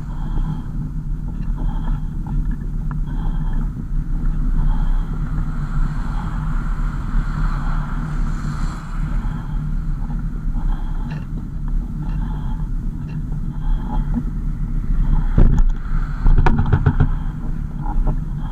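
Car driving, a steady low engine and road rumble, with a few sharp knocks or rattles near the end.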